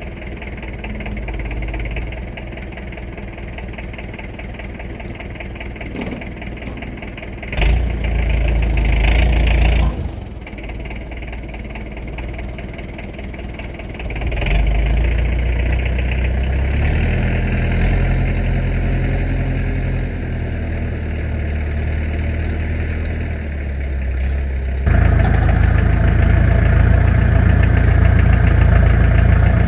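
Tractor engine running, its speed and loudness rising and falling several times as the load changes, loudest in the last few seconds.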